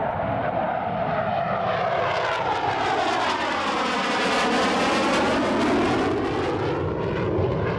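FB-111 jet flying past low, its twin turbofan engines giving a loud, steady rush with a swirling, phasing sweep that is closest about halfway through.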